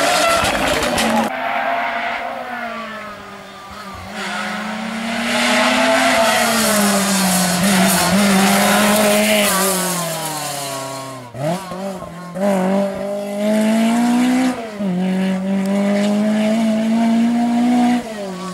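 Historic rally car engine revving hard, its pitch climbing under load and dropping sharply at gear changes several times, with a slow fall and a few brief stutters around the middle as the throttle comes off and back on.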